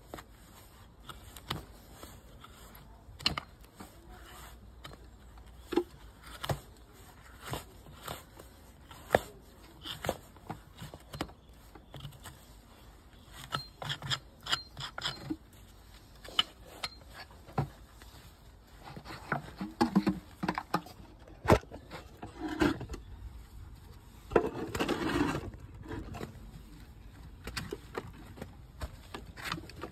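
Farrier's tools working a Shire horse's hoof: scattered sharp clicks and snips, with longer scraping passes about two-thirds of the way through.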